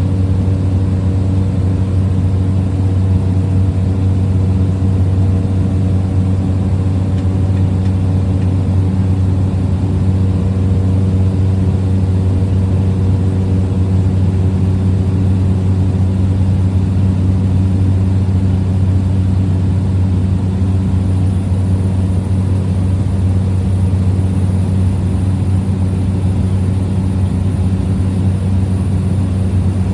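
Small plane's engine and propeller droning steadily in flight, heard inside the cabin: a strong, even low hum with a fainter hum above it.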